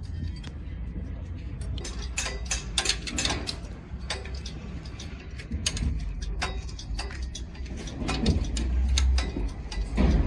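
Irregular metallic clicks and taps of hand tools working on a heavy diesel engine during a rebuild, over a steady low hum.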